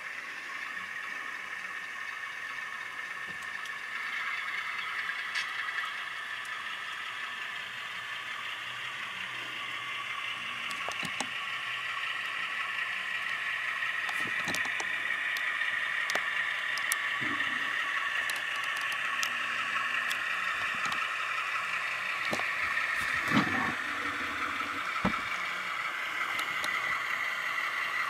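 Tsunami sound decoder in a model U25B locomotive playing the diesel engine sound through its small speaker, running steadily and getting gradually louder, with a few sharp clicks scattered through it.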